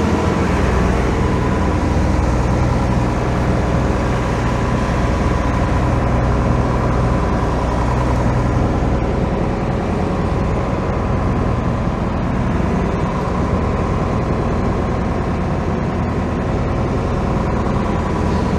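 Fishing boat's engine running steadily while motoring out to sea, a low even drone with a hiss of wind and water over it.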